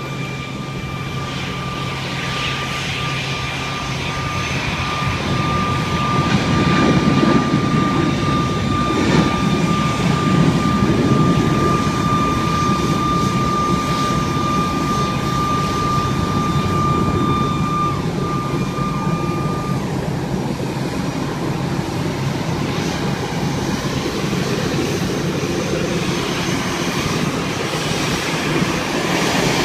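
Airbus A320 jet engines running: a steady rush of engine noise with a high, even whine that stops about two-thirds of the way through, the noise growing somewhat louder after a few seconds.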